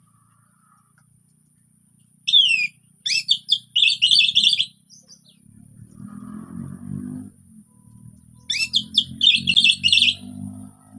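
Orange-headed thrush singing two short phrases a few seconds apart, each opening with quick falling whistles and running into a fast string of repeated notes. A low hum comes in under the song about halfway through.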